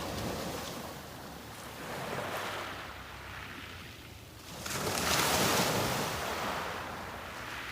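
Sea waves breaking on a beach: a smaller wash about two seconds in, then a bigger wave breaks just past the middle, the loudest moment, and slowly fades out.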